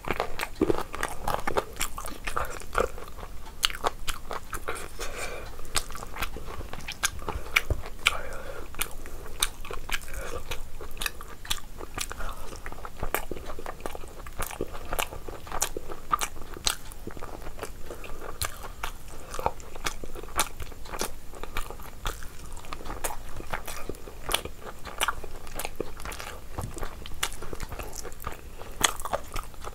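Close-miked chewing of a mouthful of rice and curry, with many wet mouth clicks and smacks coming irregularly throughout.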